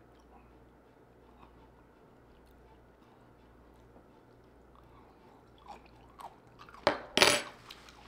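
Close-miked chewing of a floret of steamed broccoli, faint at first, then a few loud, sharp crunchy chews about seven seconds in.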